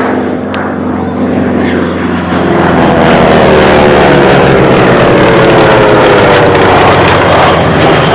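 Airplane engine flying past low and loud, growing louder about two and a half seconds in, its pitch falling steadily as it goes by.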